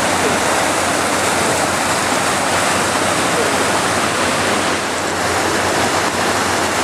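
Rushing floodwater of an overflowing creek: a loud, steady rush of water.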